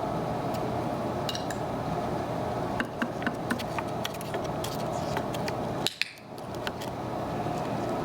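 Scattered light clicks and taps of small hard objects on a tabletop, over a steady room hum.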